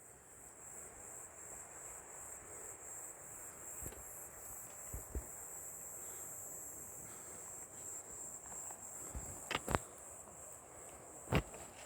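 Insects chirring in a steady, faint, high-pitched drone, with a few soft knocks near the end.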